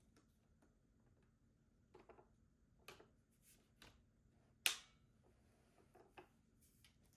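Faint, scattered clicks and taps in near silence, with one sharper click a little past halfway.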